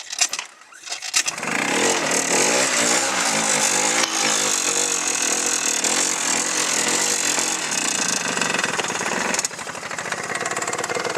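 Cold start of a 90cc ATV engine: it cranks briefly, catches about a second in, and runs with the revs rising and falling under the throttle. It settles to a steadier, lower idle near the end.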